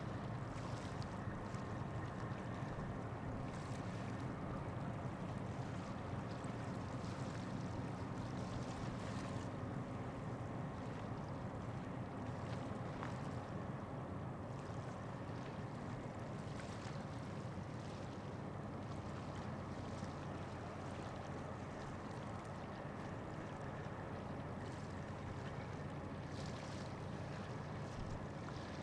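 Steady low engine drone of ships working in a harbour, with faint steady tones in it and brief patches of hiss from wind or water coming and going.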